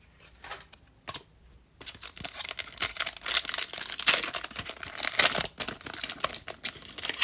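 A trading-card pack wrapper from a 2020 Topps Fire blaster box being torn open and crinkled by hand. It starts with a few faint clicks, then a dense crackling begins about two seconds in.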